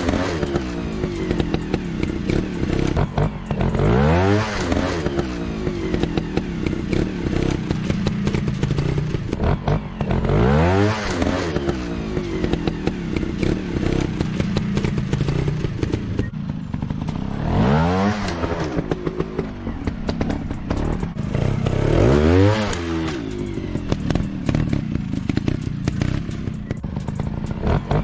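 Motorcycle engine revving up and dropping back again and again, about every four to seven seconds, over a steady running sound, with many small clicks and clatters throughout.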